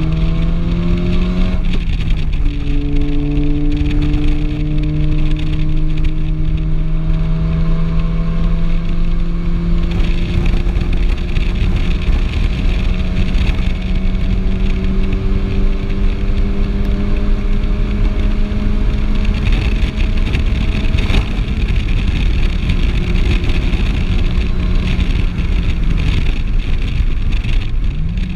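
Volkswagen Golf R's turbocharged four-cylinder engine heard from inside the cabin under hard acceleration on a race track, with road and wind noise. The revs drop at a gear change about two seconds in, then climb slowly through one long pull; near the end they ease off and flick up once more, as on a downshift.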